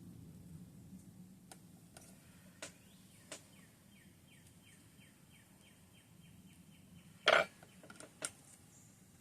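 Light clicks and taps of small craft tools being handled. In the middle, a bird gives a fast run of short repeated chirps, about four a second for some three seconds. A sharp clack comes about seven seconds in, and a lighter one a second later.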